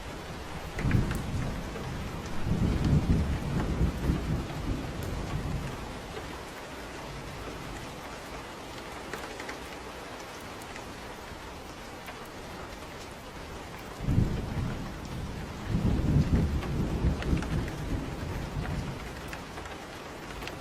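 Steady rain falling, with two rolls of low thunder. The first begins about a second in and the second about fourteen seconds in; each opens with a sharp clap, swells into a louder rumble and dies away over about five seconds.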